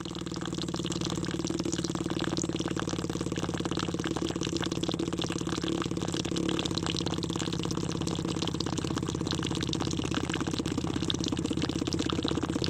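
Small electric motor driving a miniature water pump, running steadily with a hum and a fast fine rattle.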